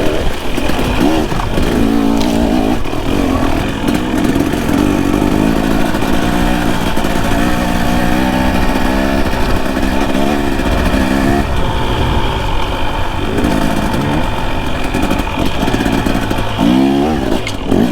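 Dirt bike engine riding trail, revs rising and falling over and over as the throttle is worked, with a few quick revs near the end.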